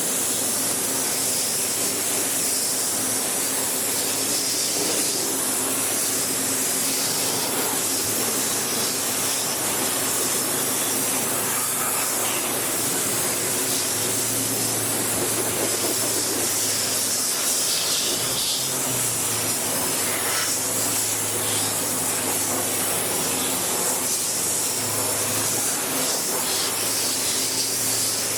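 Steady hiss of high-pressure water spraying in a car wash, with a low steady hum underneath.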